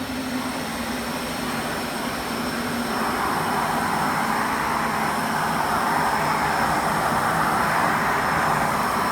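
Kärcher WD5 wet and dry vacuum cleaner running with a steady motor whine and rush of air, growing louder and hissier about three seconds in.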